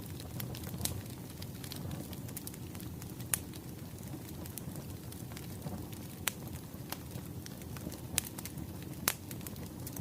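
Wood fire crackling: a steady low rumble with sharp, irregular pops and snaps of burning firewood, a few of them louder.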